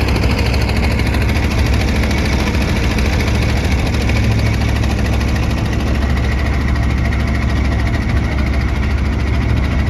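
Boat engine running steadily, its sound mostly low and even.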